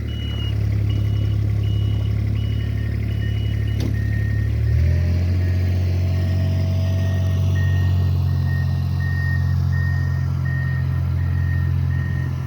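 Snow-removal trucks' engines running steadily, with their reversing alarms beeping in an even rhythm. A higher-pitched beeper stops about four seconds in while a lower-pitched one carries on, and the engine note shifts about five seconds in.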